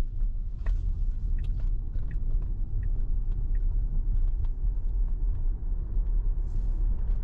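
Steady low road and tyre rumble inside the cabin of a Tesla Model Y on the move, with a few faint ticks over it. The car is electric, so there is no engine note.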